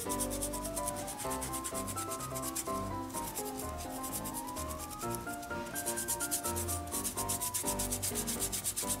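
Leather lace on a baseball glove being rubbed with a leather-oil applicator in quick, even back-and-forth strokes, several a second, a dry scrubbing sound that gets louder about five seconds in. Quiet background music with held and sliding notes plays underneath.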